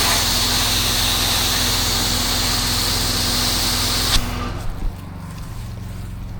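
Pressure-washer spray hissing steadily over the running engine of the washing rig. The spray cuts off about four seconds in, leaving the engine running.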